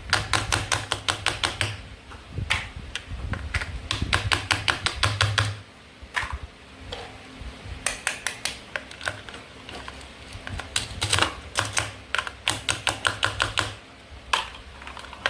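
Toy knife chopping through play food on a cutting board: quick runs of hard plastic clicks and taps, about six a second, broken by short pauses.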